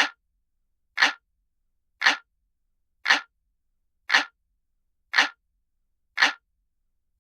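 Looped clock ticking sound effect: one short, sharp tick about once a second, evenly spaced and all alike.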